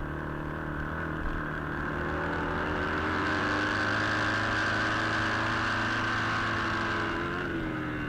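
Vintage flat-track racing motorcycle engine under throttle, heard from the rider's helmet camera. The engine note climbs steadily and grows louder for a few seconds, holds, then drops as the rider backs off near the end.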